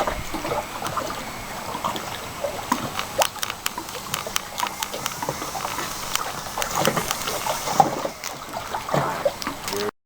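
Water sloshing and splashing close by, with many small sharp clicks and knocks; it cuts off suddenly near the end.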